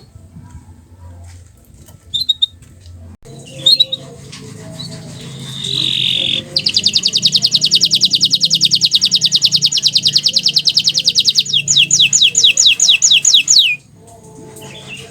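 Domestic canary (bottle-green variety) singing: a few short chirps, then a long, very fast, even trill, changing near the end to a slower series of downward-sweeping notes before it stops.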